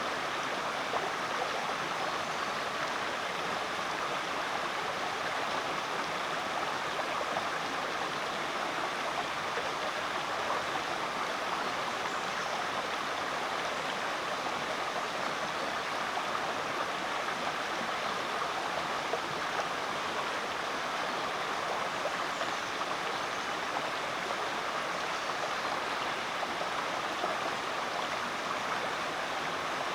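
Rainforest creek water flowing and rushing over rocks, a steady, even babble.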